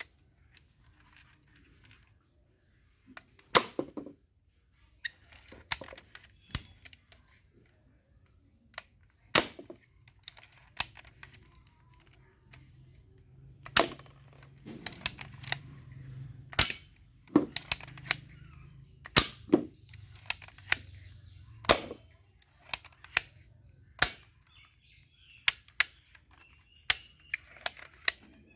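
Toy guns being fired: sharp snaps, single or in quick pairs, at irregular intervals of about a second.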